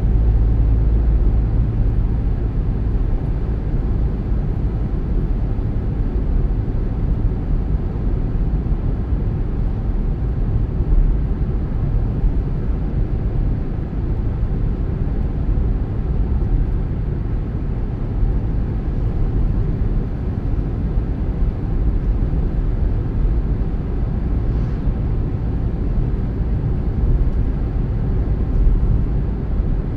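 Steady low rumble of a car driving along a road: engine and tyre noise, without pauses or changes.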